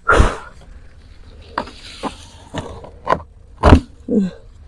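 A few scattered knocks and thumps, the loudest at the start and another near the end, with a brief scraping rustle between them.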